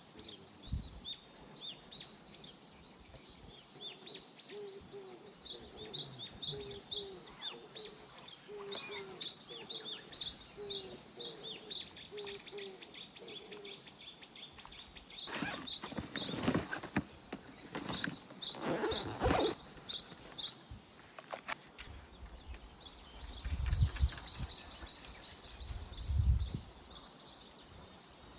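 Small birds chirping in quick repeated series of high notes, over steady outdoor background noise. Several louder rustling bursts come in the middle, and two low thumps near the end.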